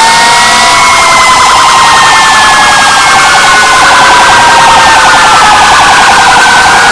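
Several fire truck sirens sounding together, very loud: slow rising and falling wails overlapping, with a fast warbling yelp through most of it.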